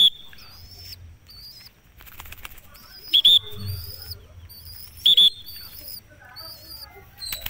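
Birds calling outdoors: a short, high, two-note call repeats about every two seconds, with thin high chirping and twittering in between.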